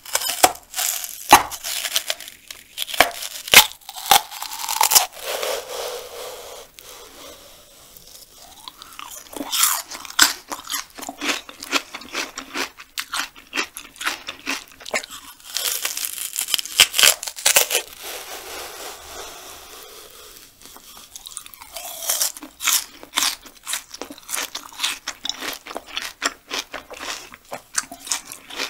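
Close-miked crunching and chewing of raw banana stem pith: crisp bites and crunches come in clusters, with quieter stretches of chewing between.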